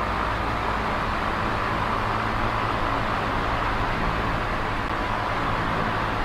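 Small electric oscillating fan running steadily: an even rush of air over a low motor hum.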